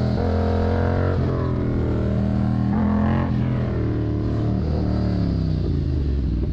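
Yamaha MT-07's parallel-twin engine through a Mivv aftermarket exhaust, ridden with the throttle opening and closing. There is a short rise in revs about three seconds in, then the pitch falls away as the bike slows, settling lower near the end.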